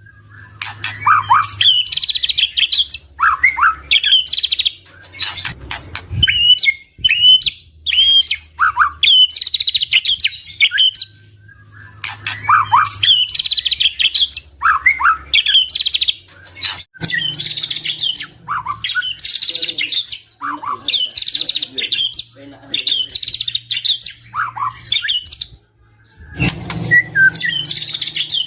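White-rumped shama (murai batu) singing in short, varied whistled phrases, repeated every second or two with brief pauses, with a run of sharp clicking notes about six seconds in.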